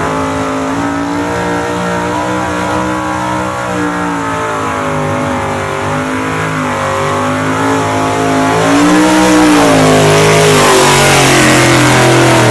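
Two-wheel-drive pulling truck's 355 cubic-inch V8 with Vortec heads running at high revs under load while pulling the sled, its pitch wavering up and down as the revs surge. It gets louder about two-thirds of the way through.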